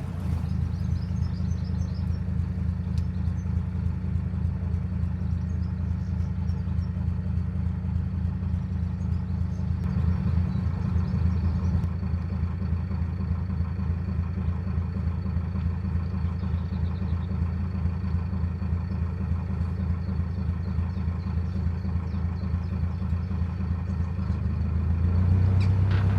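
Narrowboat diesel engine running steadily, a low even engine note that swells slightly about ten seconds in.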